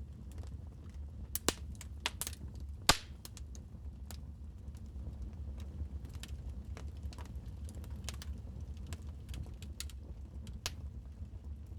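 Wood fire crackling in a fireplace: irregular sharp pops and snaps over a low steady rumble, the loudest pops in the first three seconds.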